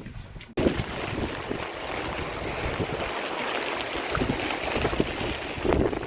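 Steady rushing noise of wind and moving water, with wind buffeting the microphone, starting abruptly about half a second in.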